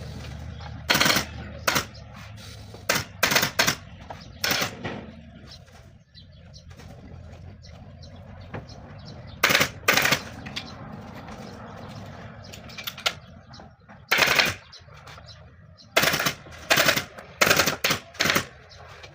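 Pneumatic upholstery staple gun firing sharp shots, some single and some in quick runs of two to four, with short pauses between.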